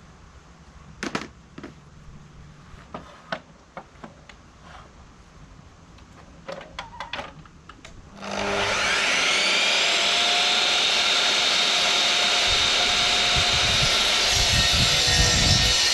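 A few knocks and clicks of handling, then about eight seconds in a power tool starts up, its whine climbing quickly to full speed and running steadily. A deeper rumble joins it later as it cuts grooves into a thick hardwood timber.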